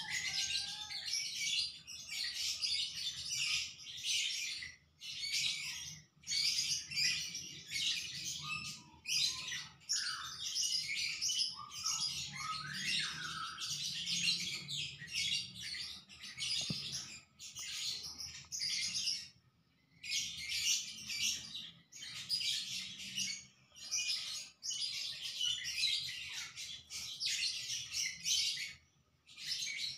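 Birds chirping in a dense, busy chorus that keeps breaking off for a moment and starting again, with a few lower, sliding calls around the middle.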